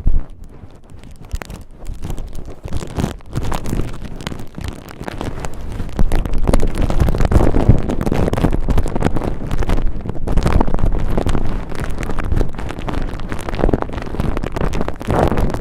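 Cotton ball rubbed and squeezed against a microphone: dense, rough scratching and rustling with a heavy low rumble. It is quieter for the first few seconds and fuller from about six seconds in.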